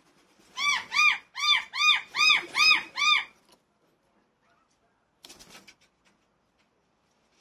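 A bird calling: seven loud notes in quick succession, each rising and falling in pitch, followed a couple of seconds later by a brief rustle.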